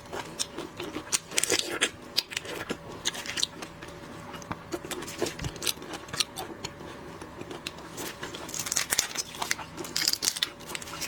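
Shellfish shells being cracked and peeled by hand: irregular sharp clicks and crackling snaps, with some close-up eating noise in between.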